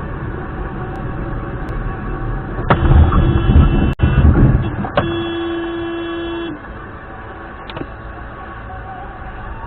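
Dash-cam audio of a car on the road: steady road and engine noise, a loud rough stretch about three seconds in, then a steady tone held for about a second and a half.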